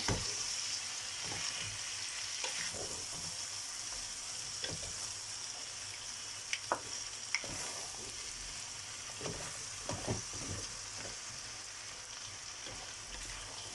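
Vegetables, white fish and tomato frying in oil in a paella pan, a steady sizzle, with occasional light knocks of the spoon against the pan as it is stirred so nothing sticks.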